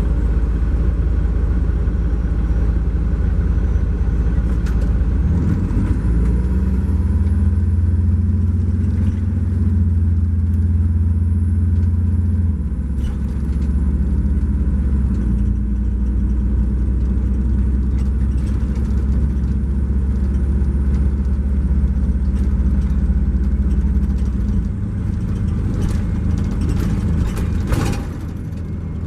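The Cummins ISX12 diesel engine of a 2012 MCI J4500 coach running while the bus is under way. Its low drone steps in pitch a few times, and a faint high whine rises about five seconds in and then slowly falls.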